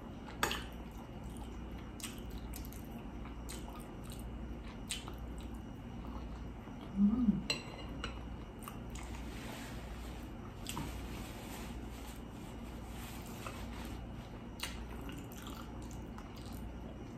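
Close-up eating sounds: chewing and biting, with scattered small clicks and taps, over a steady low hum. A brief louder sound comes about seven seconds in.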